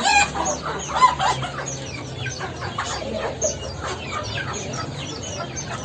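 Chickens clucking among the calls of many other birds, all overlapping in a dense, continuous chorus.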